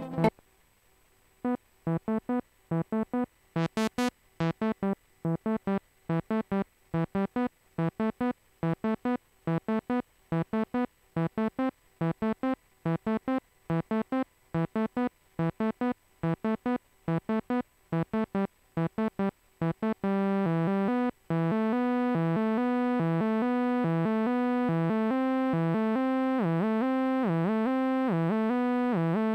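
A synthesizer playing a trance riff as short, clipped notes with gaps between them. About two-thirds of the way through it switches to a held, continuous synth sound whose notes keep changing.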